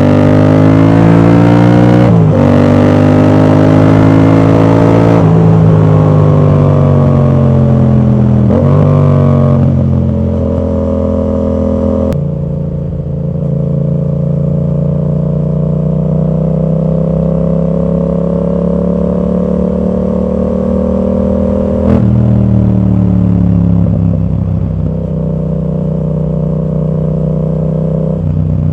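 Yamaha MT-07's parallel-twin engine running through an aftermarket exhaust with its dB killer fitted, under way and pulling hard. Its pitch climbs and breaks off several times in the first twelve seconds as it changes up through the gears. It then holds a long, slowly rising note, and drops again about two-thirds of the way through.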